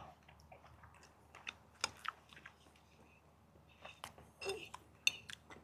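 Someone chewing a mouthful of grilled steak: faint, scattered wet clicks and mouth noises, with a few sharper clicks about a second and a half to two seconds in and again near the end.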